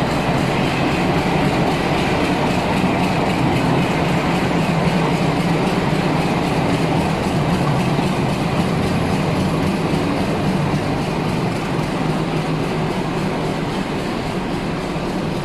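Surma Mail passenger train running on the rails: a steady, loud rush of wheel and track noise that eases slightly near the end.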